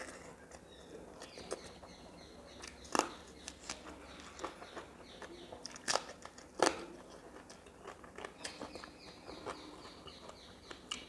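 Close-up eating sounds of rice and fish curry eaten by hand: chewing with wet mouth smacks and clicks at irregular moments, the sharpest about three seconds and six seconds in. Faint bird chirping repeats behind.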